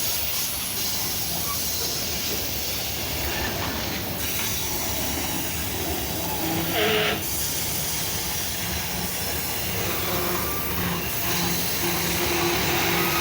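Loaded freight wagons of a grain train rolling past on a mountain descent, with a steady rumble and hiss of wheels on the rails. There is a brief louder squeal about seven seconds in and faint squealing tones near the end.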